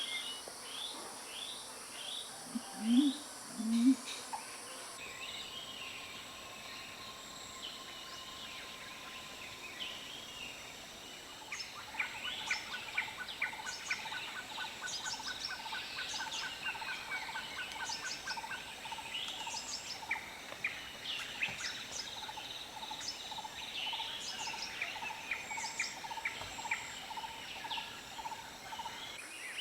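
Several wild birds calling together. There are repeated falling whistles and two loud, low rising calls about three seconds in. From near the middle on comes a busy mix of chirps, with a steady trill and a regularly repeated mid-pitched note.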